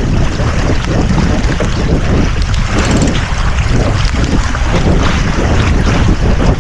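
Strong wind buffeting the microphone aboard a sailboat, a loud steady low rumble, with wave and water noise beneath it.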